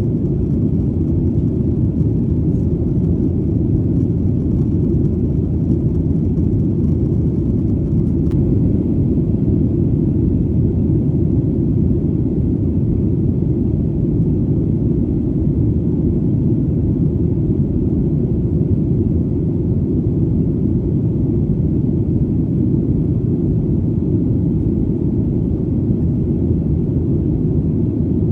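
Airplane engine drone heard as a steady, deep rumble that does not change, with almost nothing above a low roar.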